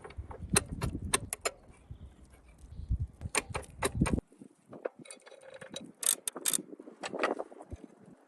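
Metal parts and hand tools clinking and clicking in a quick irregular series of sharp ticks. A low rumble under the first half cuts off abruptly about four seconds in.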